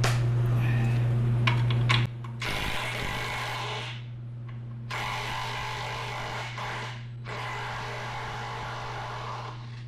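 A handheld power tool spinning a 15 mm socket in three runs of about one and a half to two and a half seconds each, backing out bolts on a Ford 5.4 two-valve V8 being torn down. A loud steady hum fills the first two seconds, then drops away.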